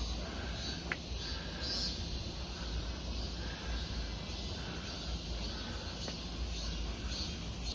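Outdoor forest ambience: faint bird and insect calls with one short high chirp about a second in, over a steady low rumble.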